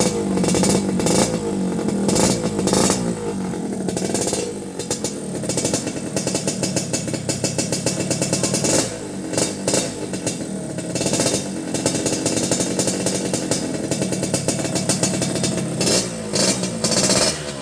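Yamaha RX-King's two-stroke single-cylinder engine running through an aftermarket racing exhaust, with the throttle blipped repeatedly so the exhaust note surges and drops back.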